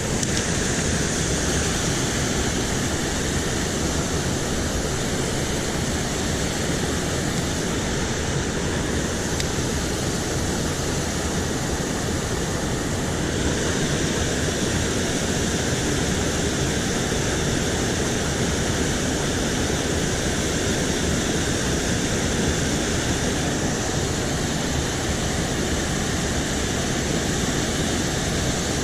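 Water rushing steadily over a small spillway: a constant, fairly loud rush.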